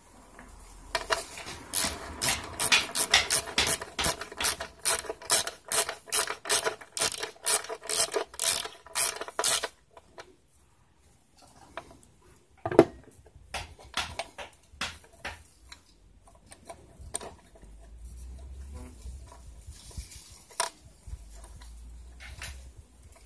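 A hand ratchet tool clicking in a quick even run, a few clicks a second, for about nine seconds as a fastener is turned, then stopping. After that come scattered single clicks and small knocks of tools and metal parts.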